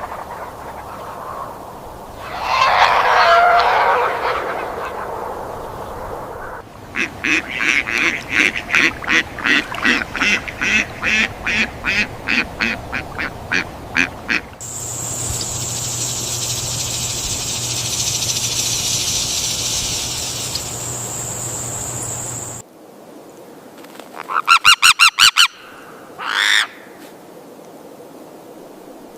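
A sequence of different bird calls, honking waterfowl-like: one loud call, then a long run of calls repeated about twice a second, a stretch of steady high hiss, and near the end a quick rapid burst of notes and a single short rising call.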